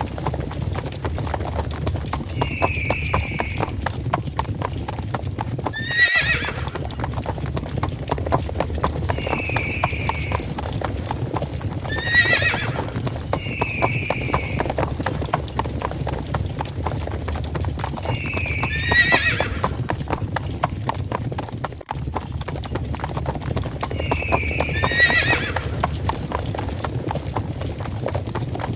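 Stampede of galloping horses: a dense, steady clatter of many hooves over a low rumble. A horse whinnies about every six seconds, four times, with short higher cries between.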